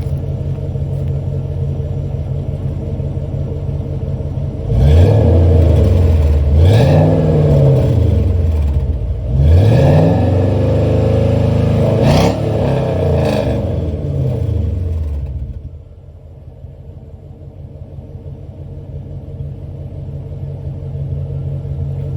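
Stock 5.3 L LS V8 on stock manifolds, with a 2.5-inch true dual exhaust through Flowmaster Super 10 mufflers and turn-downs, idling warm and then revved several times, the pitch rising and falling with each rev. The owner dislikes a raspiness at the top of the revs. Near the end the sound drops off sharply.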